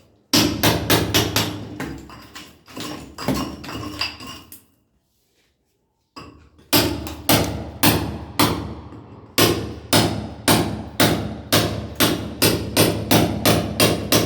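Sledgehammer striking a steel chisel to break up a masonry wall: quick repeated metallic blows, about three a second. They stop for about a second and a half near the middle, then carry on.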